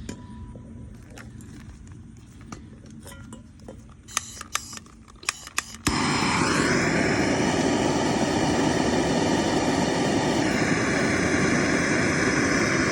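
A handheld gas torch: a few sharp clicks, then the flame lights about six seconds in and burns with a loud, steady roar. It is heating a thermopile generator.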